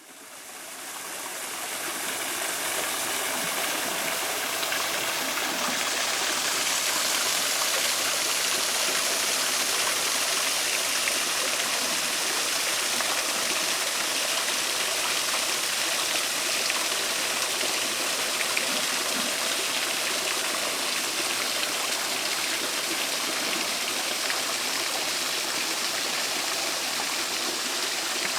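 Running water in a garden stream, a steady rushing that fades in over the first couple of seconds and then holds even.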